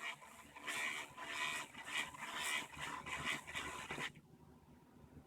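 Small quadcopter motors spinning with matchsticks attached instead of propellers: a whine that swells and fades about twice a second, with a scraping edge. They stop about four seconds in.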